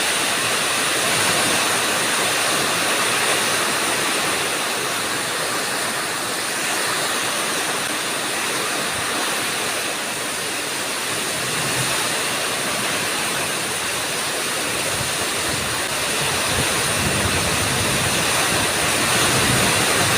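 Heavy rain driven by strong storm wind, a steady dense rushing that swells slightly now and then.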